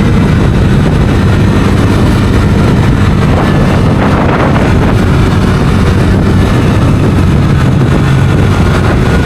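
Bajaj Dominar 250's single-cylinder engine running steadily while riding, with heavy wind rushing over the microphone.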